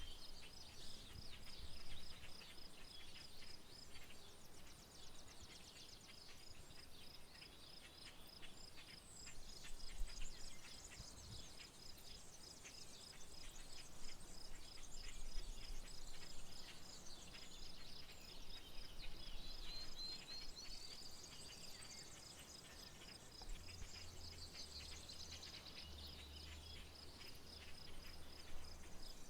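Outdoor field ambience. An insect chirps steadily in an even, pulsing high trill, with short bird calls about two-thirds of the way in and again near the end, over a faint low rumble.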